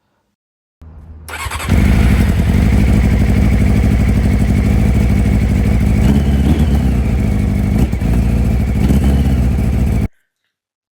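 Honda CBR's carburetted four-cylinder engine turning over for about half a second, catching about a second in and then running steadily, with a slight rise in revs around six seconds in. It is running on the old engine's carbs, cleaned and re-jetted, on a replacement engine. The sound cuts off abruptly near the end.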